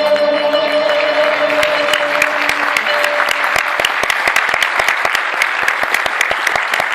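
Audience applauding, the clapping building over the first couple of seconds while the last held note of the music fades out.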